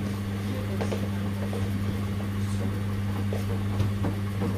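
Washing machines running mid-cycle: a steady low electrical hum, with a few faint clicks and knocks.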